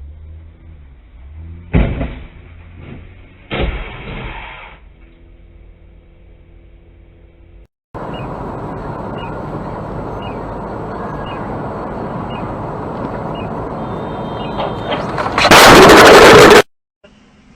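Vehicle collisions in dash-camera audio: two sharp impact bangs about two seconds apart. Then steady road noise from a moving car ends in a very loud crash, about a second long, that cuts off suddenly.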